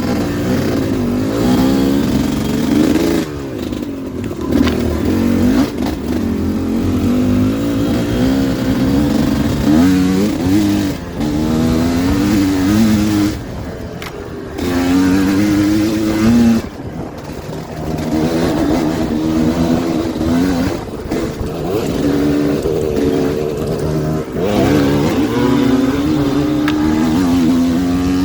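Dirt bike engine being ridden hard, revving up and dropping back again and again as the throttle is opened and shut, with a few brief lifts off the throttle.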